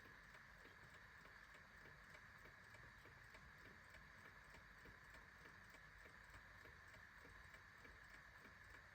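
Clock ticking faintly and evenly over a steady background hiss.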